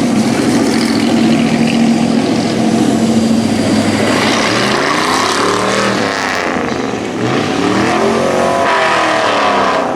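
Hobby-class race trucks' engines running at speed through a corner. Trucks pass close by about four seconds in and again about seven seconds in, their engine pitch swinging up and down.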